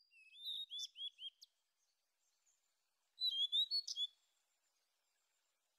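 A small songbird singing: two short phrases of quick, high chirps, the first a run of repeated arching notes near the start, the second about three seconds in.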